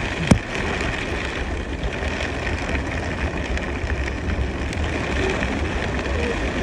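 Steady rushing storm noise of heavy rain and wind, with a deep low rumble, and a single sharp tap about a third of a second in.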